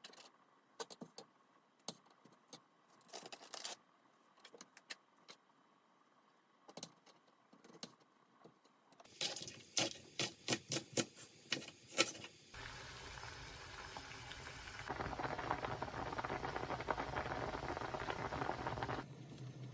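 Kitchen cooking sounds: scattered light clicks and taps, then a quick run of sharper clicks, then a steady hiss for about six seconds that grows louder partway through and stops near the end.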